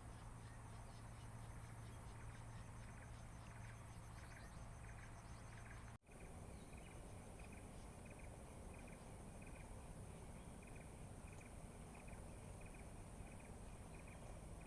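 Faint chorus of night insects such as crickets: a steady high trill with rows of short chirps repeating evenly. The sound cuts out for an instant about six seconds in.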